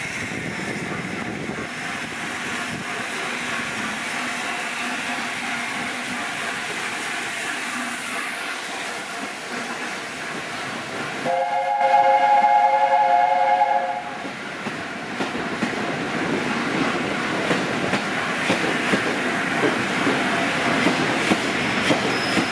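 A train running through a station with steady rail noise. About halfway through, a locomotive whistle sounds a chord of several tones, held for nearly three seconds; it is the loudest thing here.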